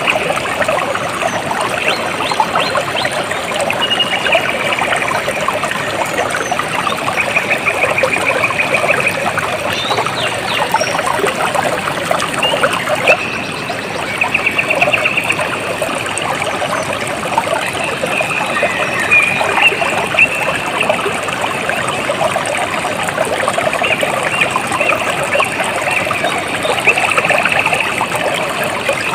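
Water trickling and splashing steadily, like a small stream over rocks, with a high rapid trill from a calling animal breaking in every few seconds.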